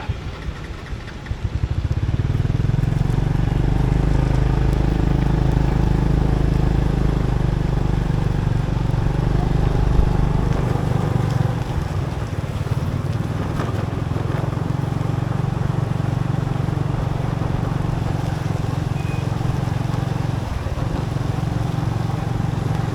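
Motorbike engine running steadily while riding, with a broad rush of road noise; it picks up about a second and a half in and then holds steady.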